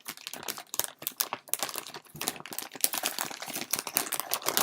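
A bag of beet chips crinkling as it is opened and handled: a dense, irregular run of crackles.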